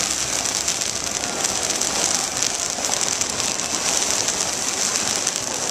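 Fireworks crackling steadily: a dense, continuous fizz of many tiny pops.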